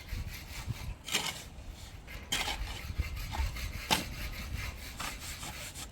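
Repeated scraping or rubbing strokes, one about every second and a half, over a low background rumble.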